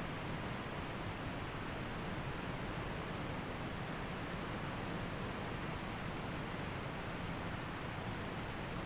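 Waterfall's rushing water, a steady, even roar without change.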